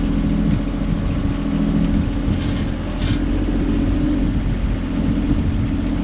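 A heavy engine running steadily at an even speed, with a brief hiss between two and a half and three seconds in.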